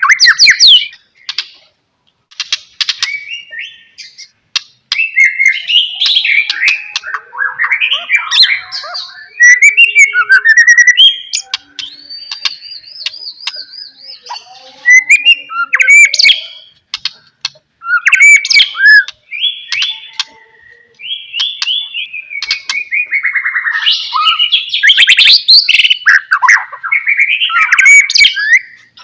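White-rumped shama (murai batu) singing a long, varied song of loud whistled phrases, fast trills and sharp clicks, broken by short pauses between phrases.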